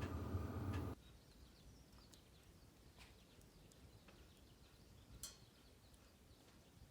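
Wood fire in a small stainless-steel secondary-combustion stove: a steady low rumble of flame with crackles that cuts off abruptly about a second in, then faint, sparse crackling with one sharper pop a little past halfway.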